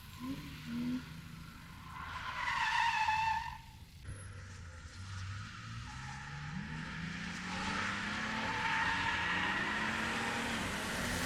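Drift car tyres squealing loudly for a couple of seconds, cut off abruptly; then a drift car's engine revving, climbing in pitch and getting louder as it comes closer, with tyre squeal building over it.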